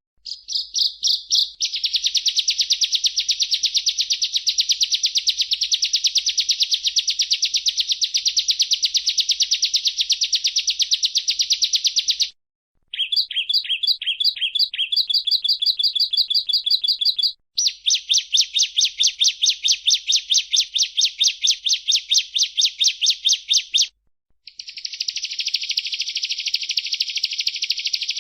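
Bar-winged prinia (ciblek) singing: long runs of rapid, evenly repeated high chipping notes, each run lasting several seconds, broken by three brief pauses.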